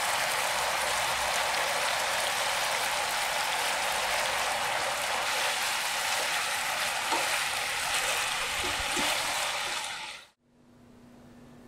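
Pork slices stir-frying in a pan with oyster-sauce glaze and fried garlic, sizzling steadily, with a few soft spatula knocks. The sizzle fades out about ten seconds in.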